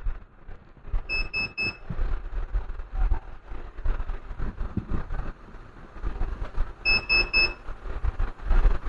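An electronic beeper sounds three short, high beeps about a second in and three more about six seconds later, while the charger's voltage is being tested. Low knocks and bumps from handling run underneath.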